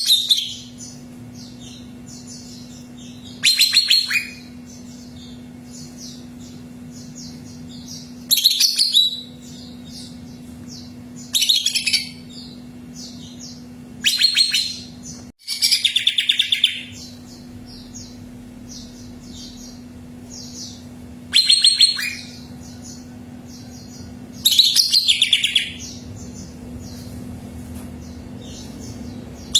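Cucak ijo (leafbird) singing: loud, rapid trilled phrases about a second long come every three to five seconds, with softer, steady twittering between them. A steady low hum runs underneath.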